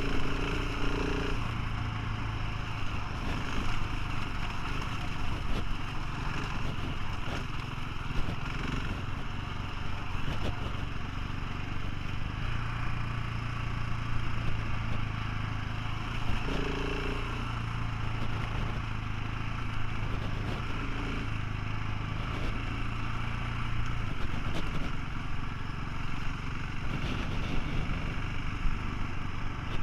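Motorcycle engine running steadily while riding, with wind and road noise. The engine note changes briefly about a second in and again around the middle.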